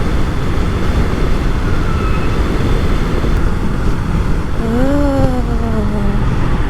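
Yamaha MT-03 motorcycle riding at highway speed: steady engine drone under heavy wind and road noise. About five seconds in, a pitched engine tone rises and then falls away.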